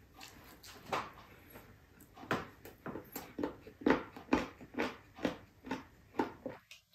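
A person chewing noisily with wet lip-smacking while eating rice and saucy braised pork ribs by hand: a string of short, irregular mouth smacks, about one to two a second, coming closer together in the second half.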